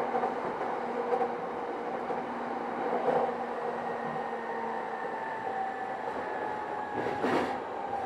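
Running sound of a JR East E233 series 8000 electric train under way: steady rolling noise of wheels on rail with a steady whine from the inverter and traction motors, and a short clatter about seven seconds in.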